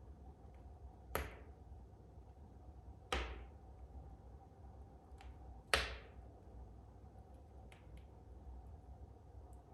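Wood fire in a fireplace crackling: three sharp pops, about a second, three seconds and six seconds in, among fainter ticks over a low steady background.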